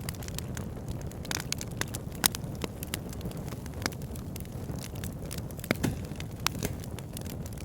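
Campfire burning, with a steady low rumble of flames under irregular sharp crackles and pops of burning wood.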